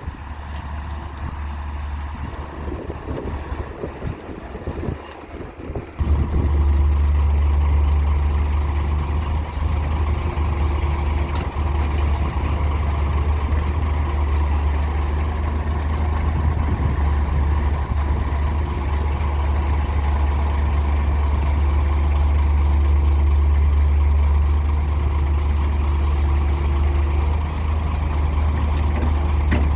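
Heavy diesel engine running with a steady low drone at an earthmoving job, mixed with wind-like noise at first. About six seconds in it suddenly becomes much louder and stays steady.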